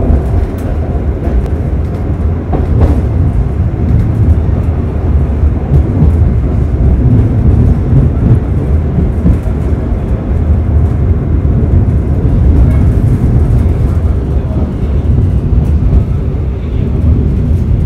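Kalijaga passenger train running: a steady, loud low rumble, with a few faint clicks.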